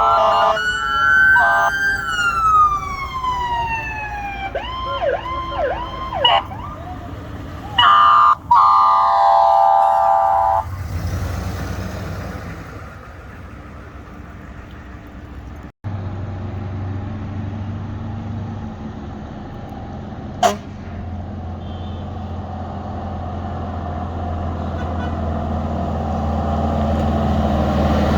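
Fire trucks pulling out on emergency warning devices: an electronic siren wails and falls in pitch as a truck passes, then runs through several quick yelp cycles, followed by a long steady horn blast about eight seconds in. After that the low diesel engine of a fire truck runs and grows louder toward the end.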